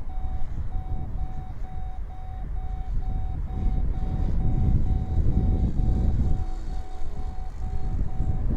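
Heavy wind buffeting the microphone, a rumble that rises and falls, with an electronic beep repeating steadily about two and a half times a second.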